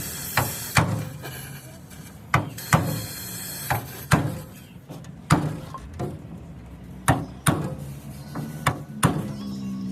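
Hammer blows, about a dozen sharp strikes at uneven intervals, typical of hand bodywork on the car.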